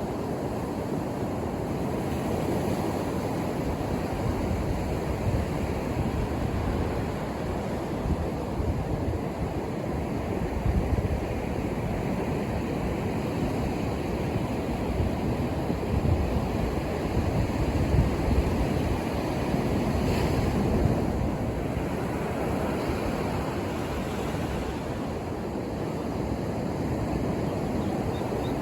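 Ocean surf breaking on a beach: a steady wash of waves with gentle swells as sets come in, and some wind on the microphone.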